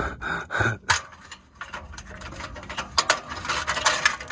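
Hand tools working on the car's underside: a ratchet wrench clicking in short, irregular runs, with metallic ticks and taps as a fastener is worked loose. The clicks come thicker from about halfway in.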